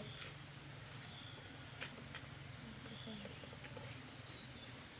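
Insects chirring in a steady, shrill drone on two high pitches, with a faint low hum beneath and one light click a little under two seconds in.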